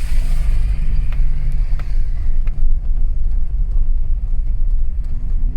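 Car driving on a rough, stony dirt track: a steady low rumble of engine and tyres, with a few light clicks and knocks in the first half.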